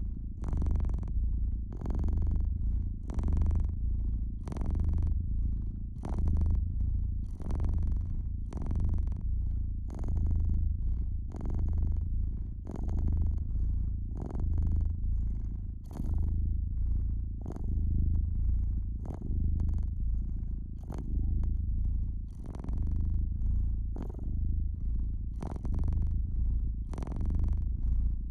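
Domestic cat purring steadily, a low rumble that swells and fades with each breath roughly every one and a half seconds, with a soft hiss on each breath.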